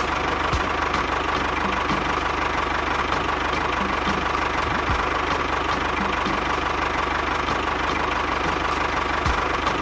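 An engine running steadily at idle, with a regular light ticking about three times a second.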